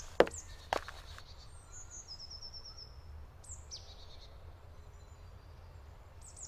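Woodland ambience with small songbirds chirping, including a short rapid trill about two seconds in and a quick falling call about three and a half seconds in, over a low steady rumble. Two sharp knocks in the first second are the loudest sounds.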